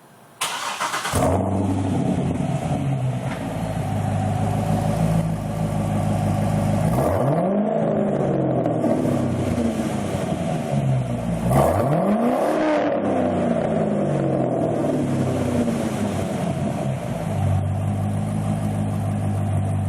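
Chevrolet Corvette Z06's V8 with a Borla cat-back exhaust (dual 3-inch pipes with an X-pipe) cranking and catching about a second in, then idling with a steady rumble. It is revved twice, each rev rising and falling back to idle, around a third of the way in and again just past halfway.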